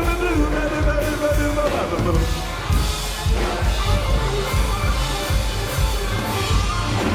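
Live rock and roll band playing: a held sung note ends about two seconds in, and the band carries on with drums, bass and guitar.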